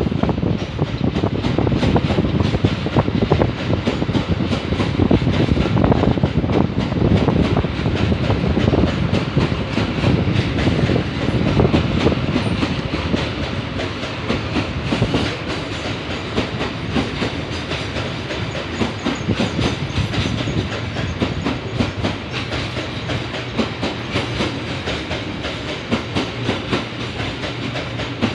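Empty freight wagons rolling past at close range, wheels clicking steadily over the rail joints, easing off a little in the second half.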